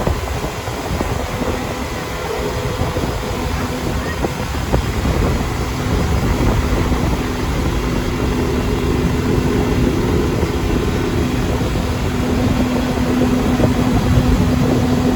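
Boat motor running steadily, its hum growing louder about six seconds in.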